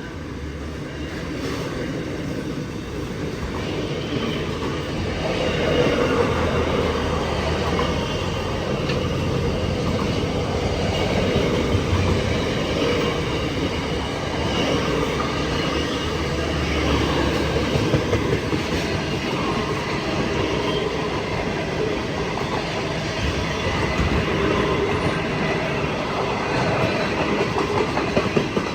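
Freight train rolling steadily past at speed, its wagon wheels clacking over rail joints, growing louder a few seconds in.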